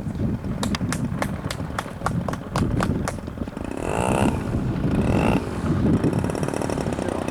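Small two-stroke model-aircraft glow engine, an MVVS 45, ticking over at a very low idle after landing, firing in sharp regular pops about four to five a second. About four and five seconds in come two short sounds that rise and fall in pitch.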